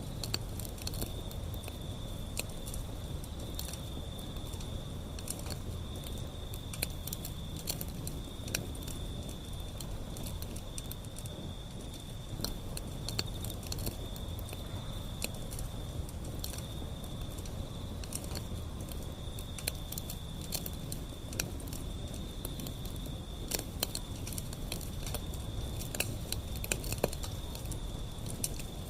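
Wood fire burning, with irregular crackles and pops over a low steady rumble. A thin high-pitched tone pulses on and off throughout.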